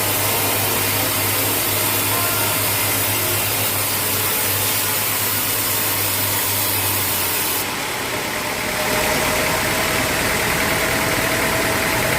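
Sawmill machinery running steadily, a continuous motor noise with a low hum. About eight seconds in the sound briefly dips and changes character, and a steady higher tone joins it.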